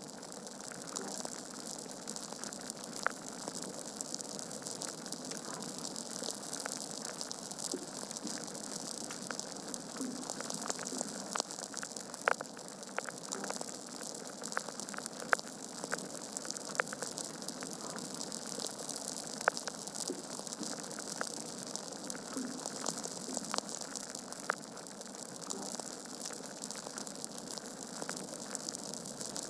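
Log fire in a fireplace crackling: irregular sharp pops and snaps over a steady hiss of burning wood.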